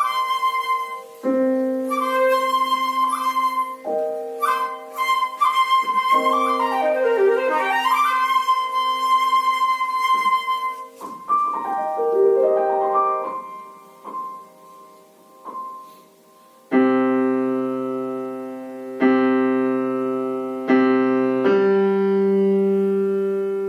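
Flute and piano playing a classical duo: the flute carries a high melody with quick running figures over the piano for the first half, then the piano goes on alone, ending with about four loud struck chords, each left to ring and fade.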